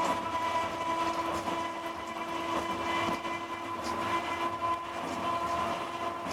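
Sapporo streetcar heard from inside the car, running along: its old traction motors give a steady whine over a rumble, with scattered knocks and clatter from the wheels on the rails.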